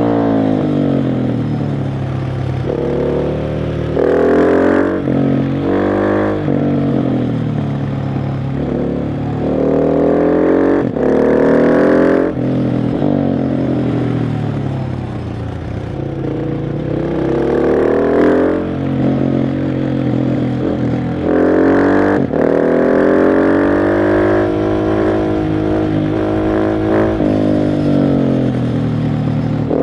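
KTM 690 SMC R's single-cylinder engine under way, revving up in repeated surges and dropping back between them, with a few short breaks where the throttle is cut for gear changes or corners.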